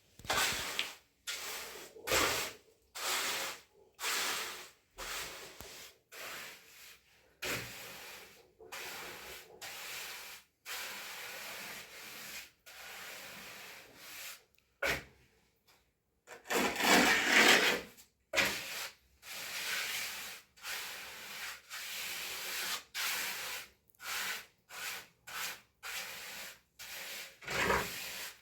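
A hand tool scraping across a hard surface in repeated strokes, each lasting half a second to a second with short pauses between, and one longer, louder stroke about two-thirds of the way through.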